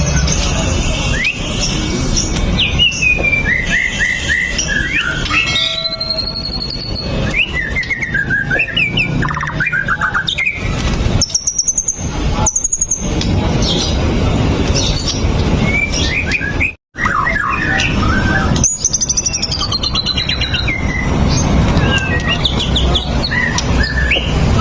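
White-rumped shama (murai batu) singing a long, varied song of whistled phrases, sweeping glides and quick trills, over a steady low rumble. The sound cuts out briefly about two-thirds of the way through.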